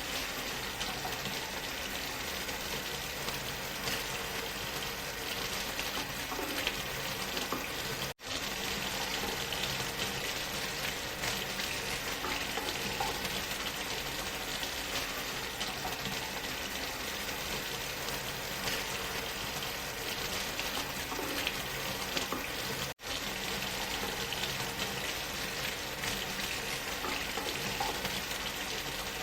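Steady rushing waterfall sound blended with white noise, an even hiss. It cuts out for a split second twice, about 8 seconds in and again about 23 seconds in.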